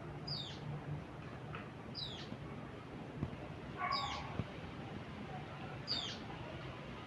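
A bird calling: a short, high, falling note repeats about every two seconds, with a lower, fuller call joining it about four seconds in.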